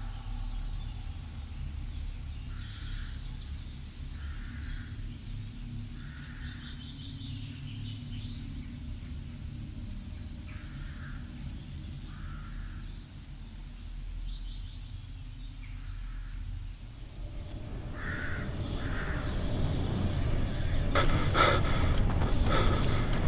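Woodland ambience: a steady low rumble with short bird calls every second or two. Over the last five or six seconds a broad noise swells steadily louder.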